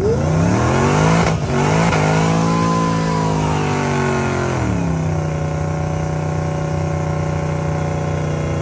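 Drag-racing car's engine revving up sharply and holding high revs, with one sharp crack about a second in, then dropping about five seconds in to a steady, lower-pitched run.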